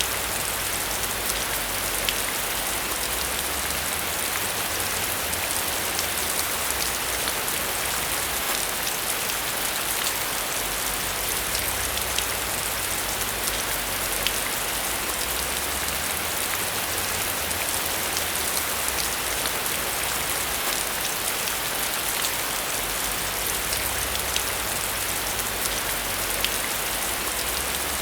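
Steady rain falling, a dense even hiss with many small drop ticks scattered through it, over a faint low rumble.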